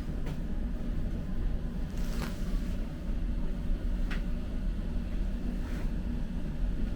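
A steady low rumble with a faint hum, broken by a few faint clicks spaced a couple of seconds apart.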